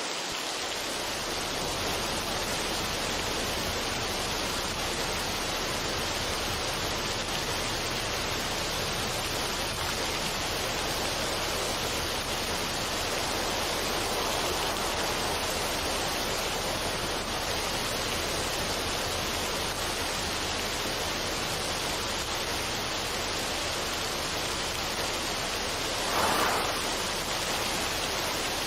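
Steady, even rushing noise of an ambient relaxation track, like falling water, with one brief louder swell near the end.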